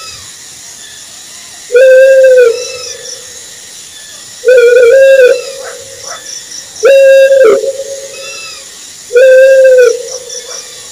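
Owl hooting: four loud, drawn-out hoots about two and a half seconds apart, each followed by a fainter second note, over a steady high hiss.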